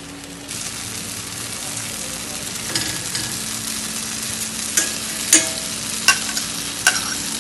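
Chicken pieces frying in a kadai, the sizzle swelling about half a second in as butter goes into the hot pan. A few sharp clicks of a utensil against the pan follow.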